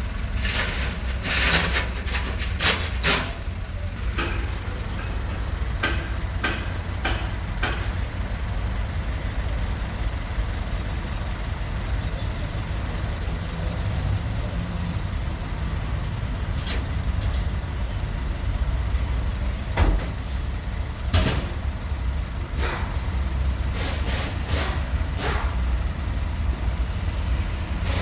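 2015 Chevy Tahoe engine idling with a steady low drone and irregular sharp clicks over it; the engine has a random misfire.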